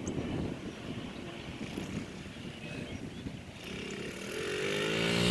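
Wind buffeting the microphone, then, nearly four seconds in, a dirt bike engine coming in and getting louder, its pitch rising as it revs up in a low gear.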